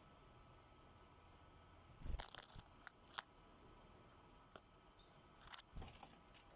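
Sparrows at a feeder close to the microphone: a scatter of sharp taps and scuffles from pecking and hopping, with a few short high chirps about two-thirds of the way through.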